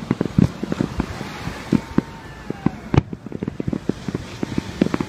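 Fireworks display going off in a dense, continuous barrage of sharp bangs, several a second.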